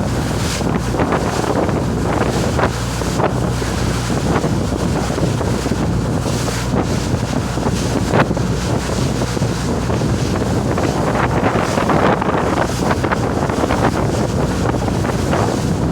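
Fishing boat underway: the steady drone of its engine under wind buffeting the microphone, with water splashing and rushing past the hull.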